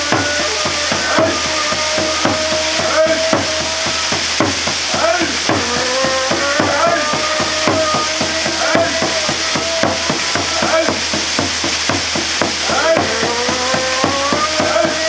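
Waterfall pouring and splashing in a loud, steady rush. A wavering, long-held tone runs through it, like a voice chanting.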